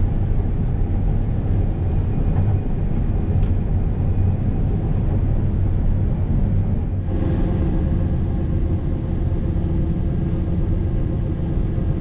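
Combine harvester running steadily while cutting soybeans: a low, even engine drone, fuller in the middle range from about seven seconds in.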